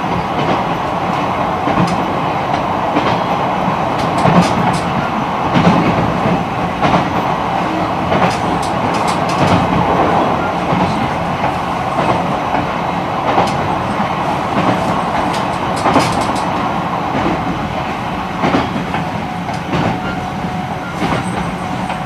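E129 series electric multiple unit running at line speed: steady wheel-and-rail running noise with sharp clacks at irregular intervals as the wheels pass over rail joints.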